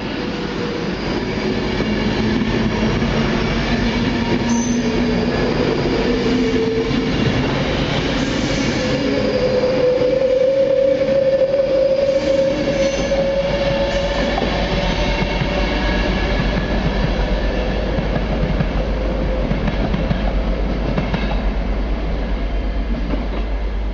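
Class 390 Pendolino electric train running past at speed: a sustained rush of wheel and rail noise with a faint whine that rises slightly in pitch midway.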